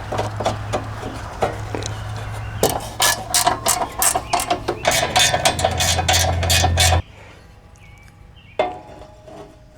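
Newly installed engine in a Husqvarna riding lawn tractor running, with a low steady hum and a fast, irregular clatter of clicks. The sound cuts off suddenly about seven seconds in, leaving a quiet background with one brief knock a little later.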